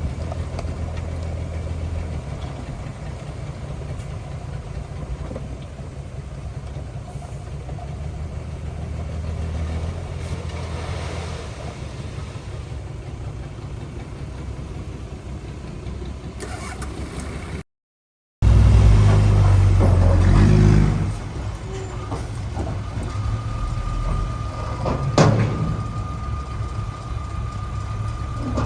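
Heavy-equipment diesel engine running with a steady low drone and an even beat. The sound cuts out for under a second about two-thirds of the way through and comes back louder for a few seconds. Near the end a thin steady whine joins it, with a sharp click.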